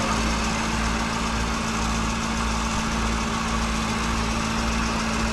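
1967 Ford Mustang's engine idling steadily with the hood up, running smoothly with little shake.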